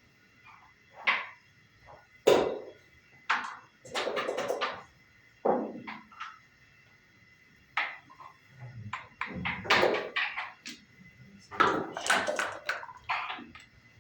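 Backgammon play: dice rattling and bouncing on the board and checkers clacking down, a series of sharp clicks and short rattles with brief pauses between moves.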